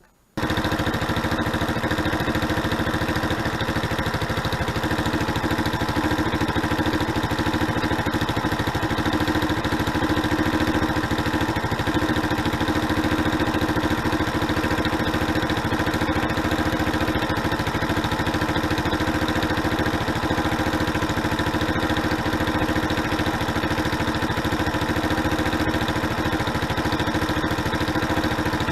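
Suzuki Address V125G scooter's single-cylinder four-stroke engine idling steadily. The sound cuts in abruptly about half a second in and holds an even pitch throughout.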